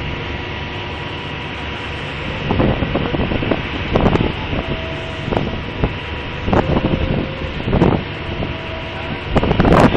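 Heavy machinery running steadily during a drilling-rig rig-down. From about two and a half seconds in, a series of short knocks or clanks comes every second or so, loudest near the end.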